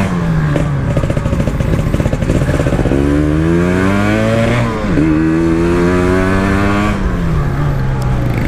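Two-stroke motorcycle engine, a Kawasaki Ninja engine in a Yamasaki frame, under way on the road. The pitch first falls off, then the engine pulls hard from about three seconds in. A quick drop in pitch near the middle is like a gear change; it revs up again and eases off near the end.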